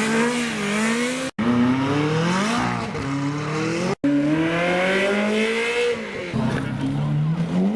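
Sports car engines accelerating hard as they drive off, the pitch climbing again and again through the revs. The sound drops out sharply for an instant twice.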